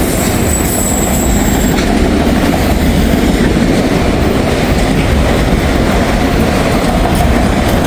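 Freight train cars rolling past at trackside, a steady loud rumble of wheels on rail. A thin high wheel squeal fades out about two seconds in.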